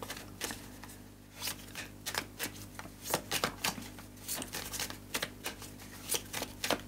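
A tarot deck shuffled by hand: a quick, irregular run of soft card flicks and taps that starts about a second and a half in.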